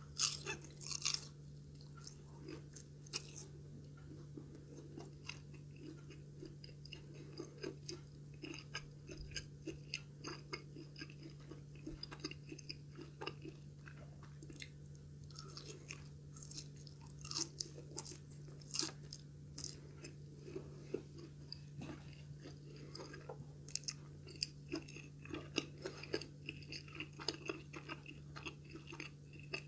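Close-miked chewing of crispy breaded, deep-fried katsu, with many small crunches and mouth clicks throughout.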